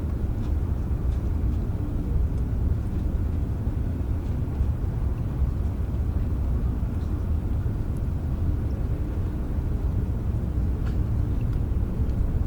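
Steady rain, a constant dense hiss weighted toward a low rumble, with scattered faint ticks of individual drops.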